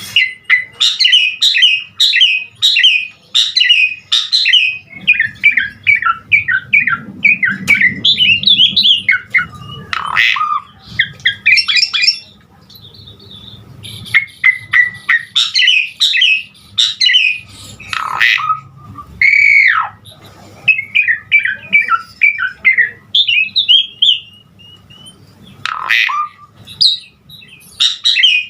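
Javan pied starling (jalak suren) singing a long, varied song of rapid chirps, whistles and harsh squawks, broken by a couple of short pauses. A few loud slurred whistles come about two-thirds of the way through.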